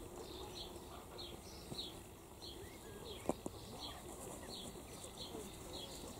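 A bird calling over and over outdoors, a short high note falling in pitch about twice a second. A single sharp knock sounds a little after three seconds in.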